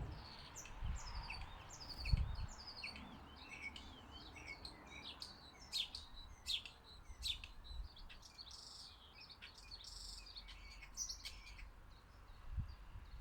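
Small garden birds chirping and calling at a feeder: many short, high chirps and quick twittering notes overlapping throughout, with a few sharper, louder calls in the middle. A few low dull thumps come through underneath.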